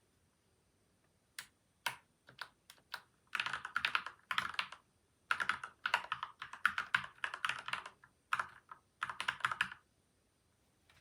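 Typing on a PCL87 mechanical keyboard with lubed switches and stabilisers and tape and foam mods: a few single keystrokes, then several quick bursts of fast typing that stop shortly before the end.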